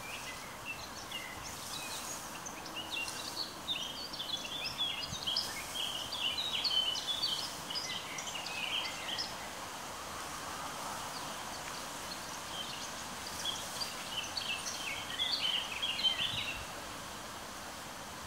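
A songbird sings in two long runs of rapid, high chirps over a steady outdoor hiss.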